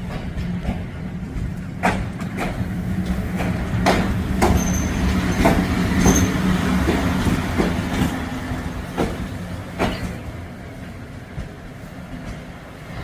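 EP09 electric locomotive moving slowly over station tracks during shunting. A steady hum runs under irregular clicks and knocks of its wheels over rail joints and points, with two brief high squeals about halfway through.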